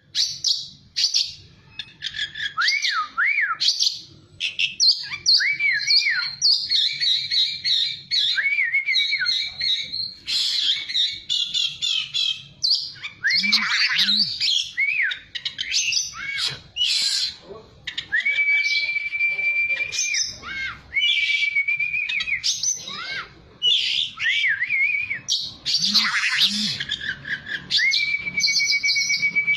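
A songbird singing a long, varied song of rapid chirps, quick up-and-down whistled sweeps and a few long held whistles. The song is played as a lure song to provoke a kept oriental magpie-robin into singing back.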